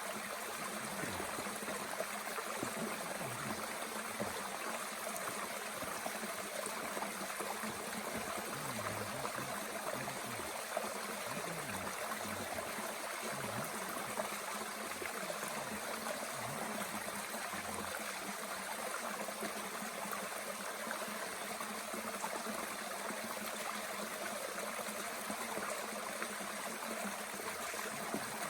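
Mountain stream flowing steadily with a rushing, gurgling sound, and a couple of faint pops from the small wood fire in a Bush Box stove.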